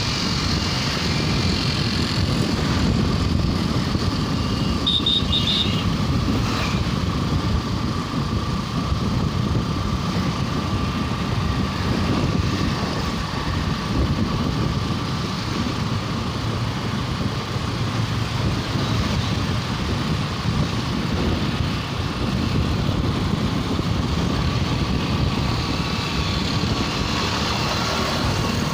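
Motorcycle riding through city traffic: a steady, heavy rumble of engine and road noise with passing vehicles. A few short high beeps sound about five seconds in.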